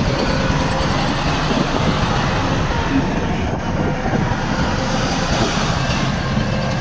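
Heavy diesel construction machinery running steadily: a low, continuous engine noise.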